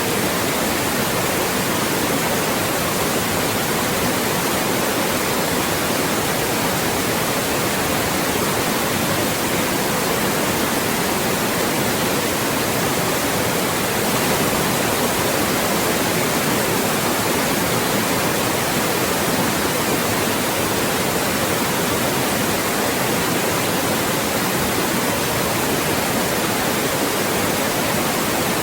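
Loud, steady white noise: an even hiss spread across all pitches, unchanging throughout, used as a speech blocker.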